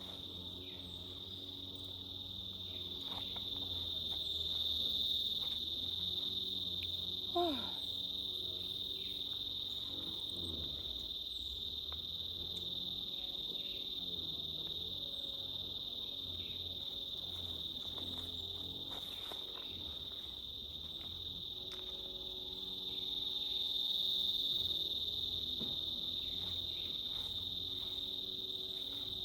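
A steady, high-pitched chorus of insects, taken to be crickets, swelling louder twice and fading back.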